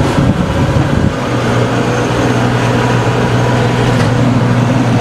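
Tractor engine running steadily. A rough low rumble settles into an even hum about a second in.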